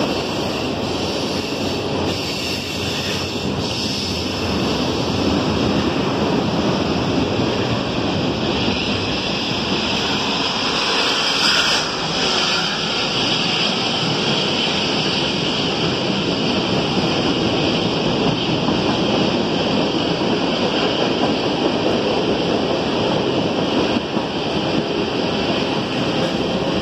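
CSX freight train cars rolling past beneath the bridge: a steady rumble and rush of steel wheels on rail.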